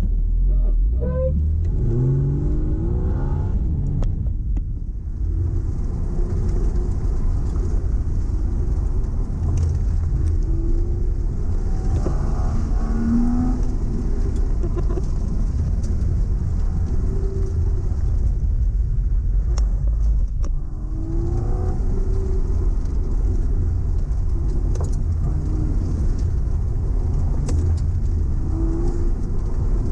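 Car engine heard from inside the cabin, pulling hard from a standing launch with the revs climbing, then rising and falling as the car is driven hard through an autocross course. The engine sound dips briefly about five seconds in and again about twenty seconds in.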